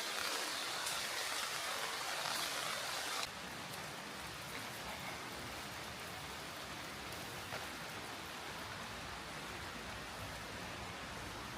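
Rain falling, a steady hiss that drops abruptly to a quieter, even hiss a little over three seconds in.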